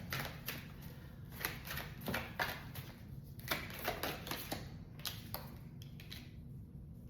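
Tarot cards being handled on a table: a string of quick, sharp card clicks and flicks, two or three a second, thinning out after about five seconds.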